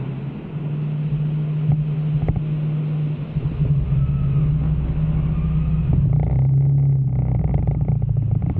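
Motorcycle engine running steadily and getting louder about half a second in and again near the middle, as the bike gets under way.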